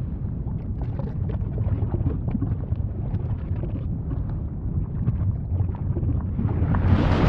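Volcano rumbling deeply, with scattered sharp crackles over the rumble. Near the end a louder roaring rush builds up, like the start of a stronger outburst.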